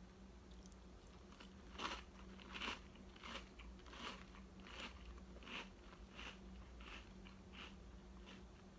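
Faint crunching of a mouthful of Cap'n Crunch cereal being chewed. The crunches come steadily about every two-thirds of a second, starting about two seconds in.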